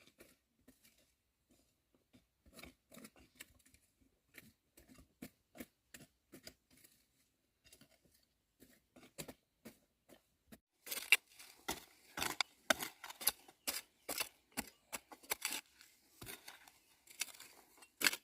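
A run of irregular sharp clicks and taps, a few a second, faint at first and clearly louder from about eleven seconds in.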